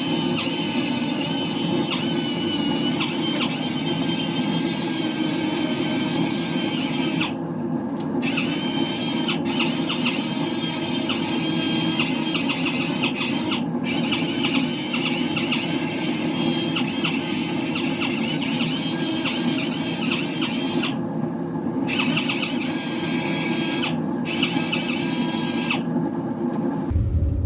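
Power orbital sander running on a car body panel with 320-grit sandpaper: a steady high whine over a rush, breaking off briefly a few times, and stopping just before the end.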